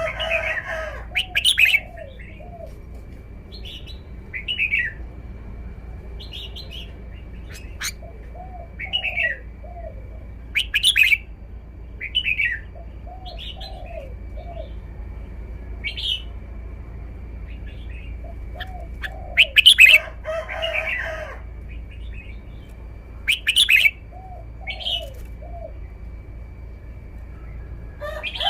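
Red-whiskered bulbul singing short, bright, repeated song phrases every second or two. Lower calls from other birds sound between the phrases, louder near the start and about two-thirds of the way through, over a faint steady high tone.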